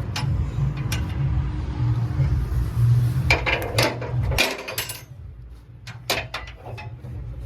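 A deep steady rumble with scattered sharp clinks and knocks over it. The rumble stops about four and a half seconds in, leaving a few isolated clicks.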